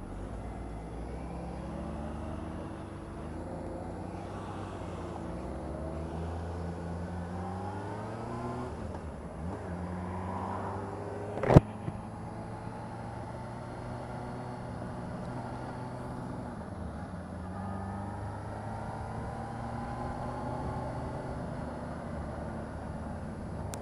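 Motorcycle engine running under way, its pitch climbing and dropping again and again as it accelerates and eases off. One sharp knock about halfway through.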